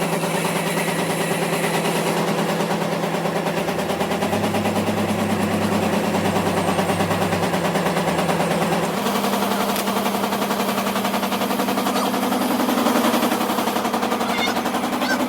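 An engine running steadily with a very fast pulsing beat, its pitch stepping up slightly about nine seconds in.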